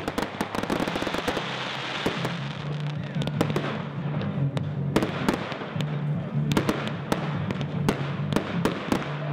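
Aerial fireworks going off in quick succession: a steady stream of sharp bangs and crackles, several a second, as multiple small bursts break in the sky.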